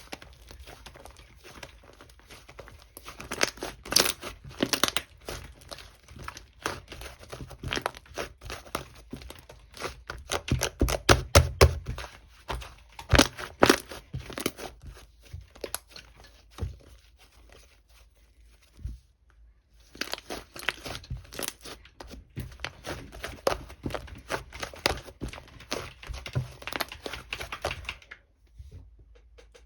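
Slime being worked by hand: pressed, rolled and stretched, giving runs of sticky clicks and crackles with short pauses between handlings.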